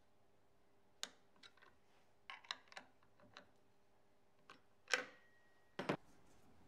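Scattered light clicks and knocks of small parts or tools being handled on a workbench. A louder knock about five seconds in leaves a brief metallic ring, and a double knock follows near the end.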